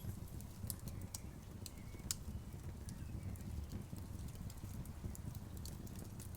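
Outdoor wood bonfire crackling, with irregular sharp snaps and pops over a low, steady rumble of burning; one louder pop about two seconds in.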